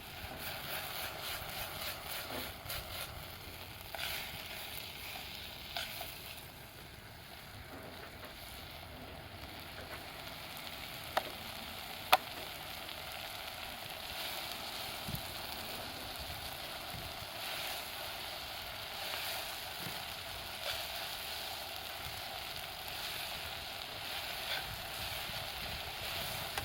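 Wood campfire crackling: a steady hiss with scattered small crackles, and two sharp pops about a second apart near the middle.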